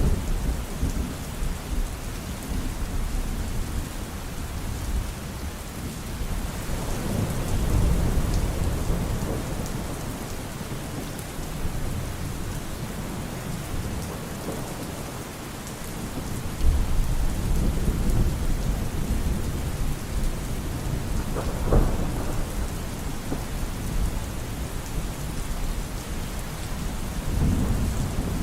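Steady rain falling, with thunder rumbling in several long swells and one sharper clap about two-thirds of the way through.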